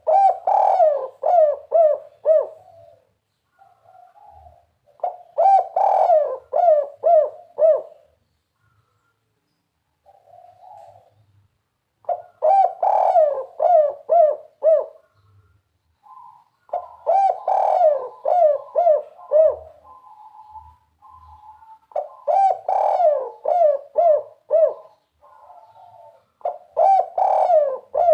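Spotted dove (tekukur) cooing in the 'kuk 3' style: about six phrases, one roughly every five seconds, each a run of short mellow coos. Softer coos fall between them.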